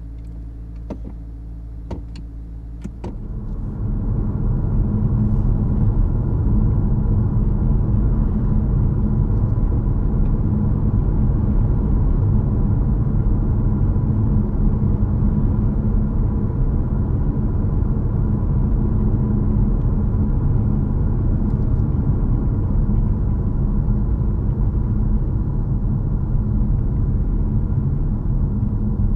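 Cabin sound of a 2022 Honda HR-V e:HEV hybrid driving: a low hum with a few sharp clicks, then about three seconds in the rumble grows louder and holds steady with a low droning tone.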